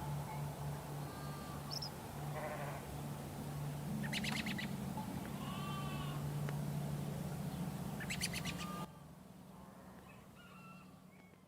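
A sheep bleating once, briefly, among chirping birds, over a steady low hum. The background falls away suddenly about nine seconds in.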